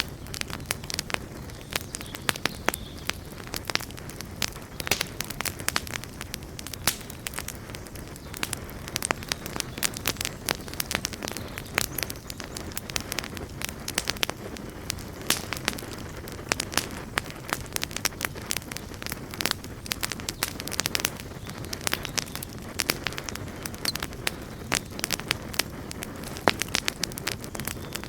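Campfire burning with a steady low rush and frequent irregular sharp crackles and pops.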